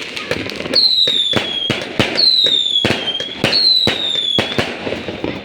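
Fireworks going off in quick, irregular bangs, with three shrill whistles, each about a second long and dropping slightly in pitch, from whistling fireworks.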